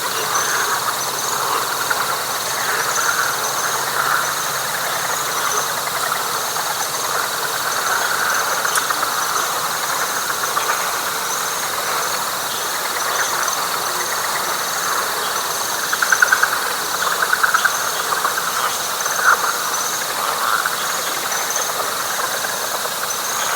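Night chorus of frogs and insects in a wet pine flatwoods: a dense pulsing frog chorus, with a steady high insect trill and a regularly repeating higher chirping over it. About two-thirds of the way through, a louder rapid pulsing call stands out from the frogs.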